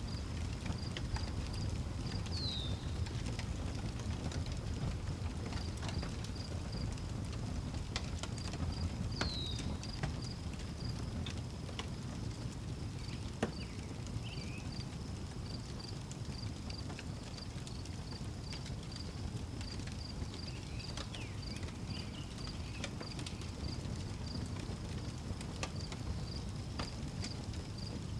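Wood fire crackling with scattered sharp pops over a low steady rumble, while crickets chirp in an even high pulse throughout. A bird gives a short falling whistle twice, once about two seconds in and again about nine seconds in.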